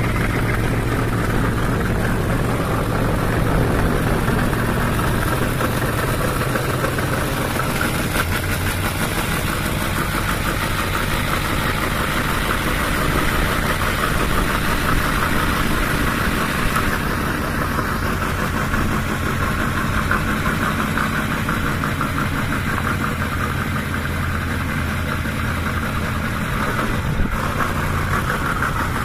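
1932 Ford coupe hot rod's V8 idling steadily through open, unmuffled headers.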